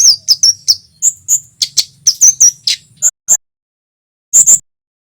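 Kemade jawa (cit keres), a small flowerpecker, giving a rapid series of sharp, high chip notes and quick down-slurred calls. The calls break off about three seconds in, and two more chips come near the end.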